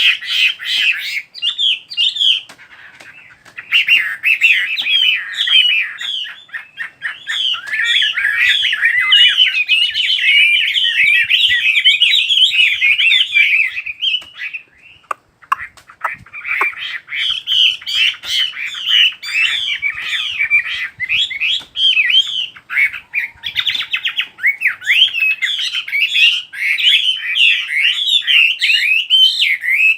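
Chinese hwamei singing a long, rapid, varied warbling song of loud whistled notes, pausing briefly about three seconds in and again around the middle.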